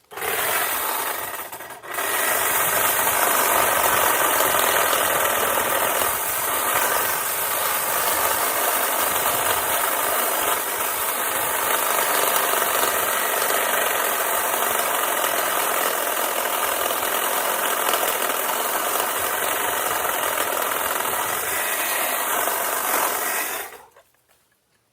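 Electric power saw running and cutting through tree branches, with a steady motor whine. It stops for a moment about two seconds in, then runs for about twenty seconds and cuts off suddenly.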